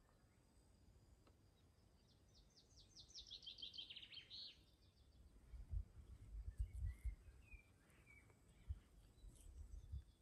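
A songbird sings one rapid trill of quick notes that fall in pitch and end in a brief flourish; afterwards a few faint chirps and several low dull thumps.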